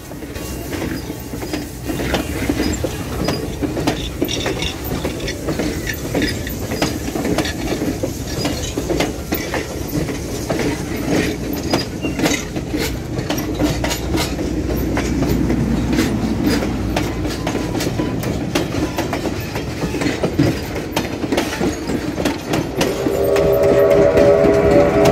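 Passenger coaches rolling past close by, a steady rumble with many sharp wheel clicks over the rail joints. Near the end the steam locomotive's whistle starts, a steady chord of several tones.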